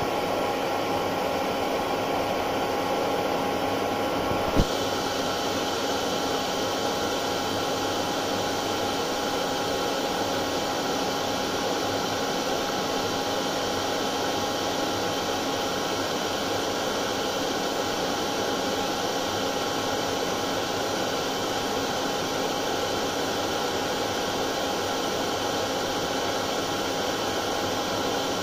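Hair dryer running continuously: a steady rush of blown air with a faint, even whirring note. There is one brief click about four and a half seconds in, after which the hiss goes on unchanged in level.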